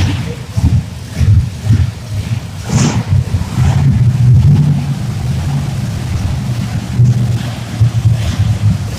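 Monster truck engines running loud and revving, a deep uneven throb that swells and falls, with a brief sharp noise about three seconds in.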